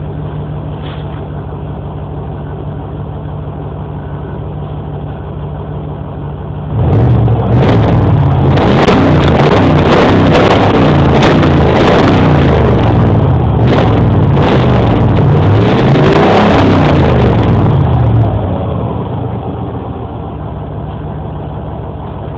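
Truck engine and exhaust idling, then revved several times over about ten seconds, the pitch climbing and falling with each rev, before settling back to a steady idle.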